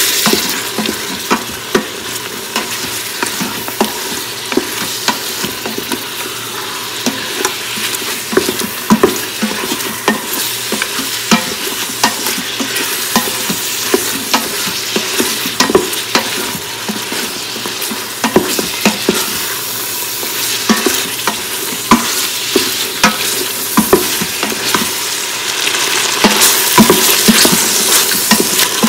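Beef and spice masala sizzling as it fries in an Instant Pot's stainless-steel inner pot, with a spoon stirring and scraping, giving frequent irregular clicks and knocks against the metal. This is the bhunna stage: the meat is fried down with small splashes of water so the masala doesn't burn. The sizzle grows louder near the end.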